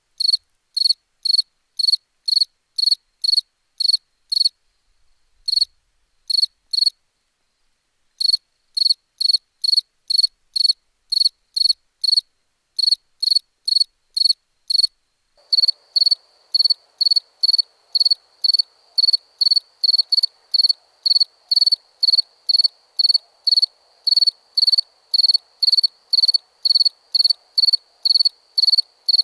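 A cricket chirping steadily at about two chirps a second, high-pitched, with short pauses about five and seven seconds in. From about halfway a faint continuous trill at the same pitch and a soft hiss join the chirps.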